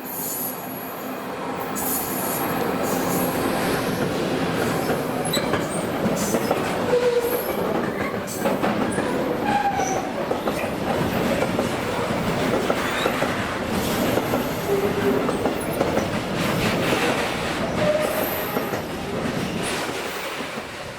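Train passing at close range: steady rumble of wagons, with wheels knocking over rail joints and several brief wheel squeals. It builds over the first two seconds and then holds.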